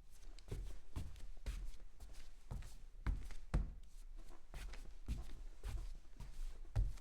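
Footsteps walking at an even pace, about two steps a second, each a dull thump with a sharper click, in a small reverberant room.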